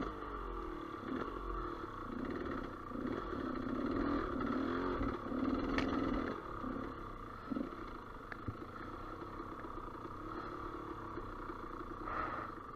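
Gas Gas EC200 two-stroke enduro motorcycle engine running under way, its revs rising and falling as the throttle is worked. The revs are highest around the middle.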